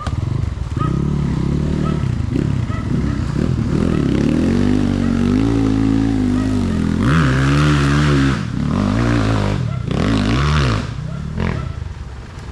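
Dirt bike engine revving up and down repeatedly on an off-road trail ride, with two harder bursts of throttle about seven and nine and a half seconds in.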